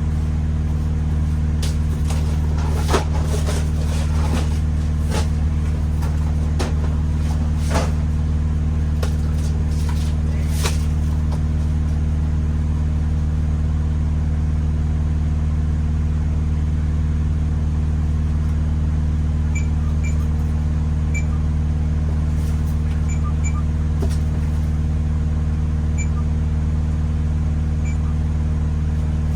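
Steady low drone of a diesel engine running without change. Over it, during the first ten seconds or so, come knocks and thuds of cases being handled, and a few faint short high beeps sound later on.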